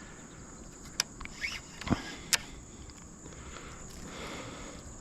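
A few short, sharp clicks and knocks, about one to two seconds in, over a faint steady high hiss.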